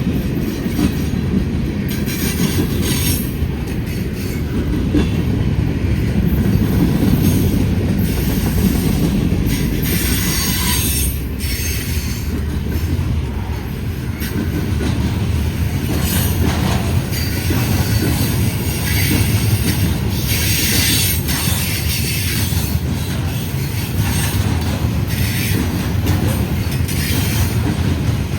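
Long freight train rolling past, its cars' wheels rumbling steadily on the rails, with short bursts of high-pitched wheel squeal every few seconds.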